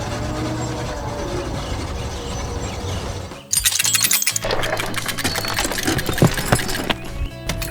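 Animated sound effects over background music: a steady mechanical running sound, then, after a brief drop about halfway, a dense rapid clattering and crackling.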